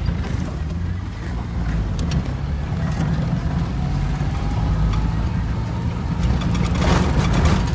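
Car running along a road, its engine and tyre rumble heard from inside the cabin, with a faint rising whine in the second half and a short surge of louder noise near the end.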